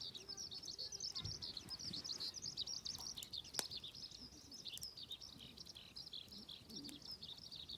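Birds chirping and twittering without a break, a dense run of high-pitched, quickly varying calls, with one sharp click about three and a half seconds in.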